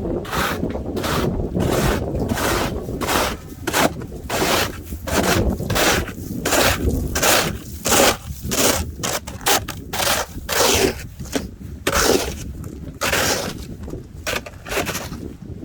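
Footsteps crunching in snow at a walking pace, about two steps a second, over a low wind rumble on the microphone.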